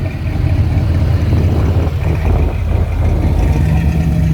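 Car engine running at a low idle-like speed, loud and deep, while the car is being parked. A steady higher hum joins in about three and a half seconds in.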